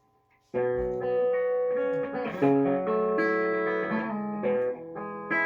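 Guitar music, most likely electric guitar: it starts abruptly about half a second in with ringing held notes and chord changes.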